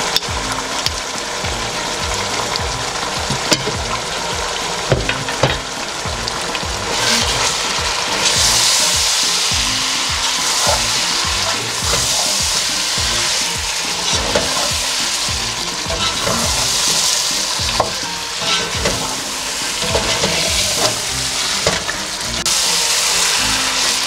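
Chicken pieces and ground masala sizzling in hot oil in a pot as a wooden spatula stirs and scrapes them, with occasional knocks of the spatula on the pot. The sizzle grows louder about seven seconds in, as the masala is being roasted with the chicken.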